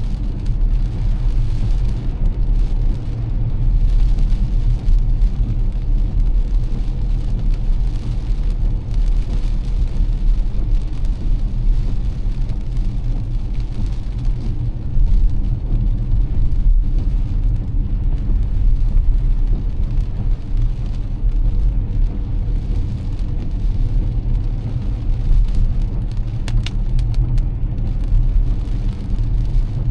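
Car driving in heavy rain: a steady low drone of engine and tyres with an even hiss of rain over it.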